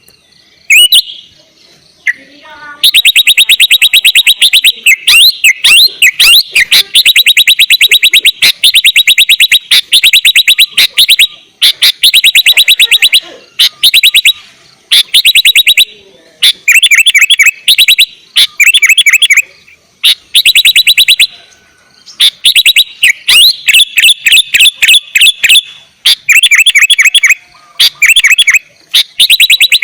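Sooty-headed bulbul (kutilang) singing loudly in very fast runs of repeated chirping notes. A long trill of about eight seconds comes first, then shorter bursts of a second or two separated by brief pauses.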